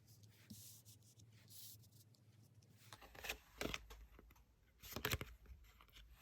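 Tarot cards being handled: faint sliding and brushing of card stock, with a few sharper swishes and snaps about three, three and a half, and five seconds in.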